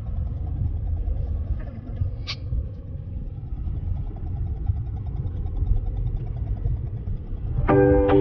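Low, steady rumble inside a moving car: engine and road noise while driving on a snow-covered road, with a single click about two seconds in. Near the end, music with plucked notes comes in.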